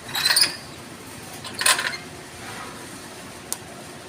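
Repaired Yamato stick welding machine striking short arcs: two brief bursts of arc crackle, one at the start and one just under two seconds in, followed by a single sharp click near the end. The arc catching is the sign that the repaired machine works.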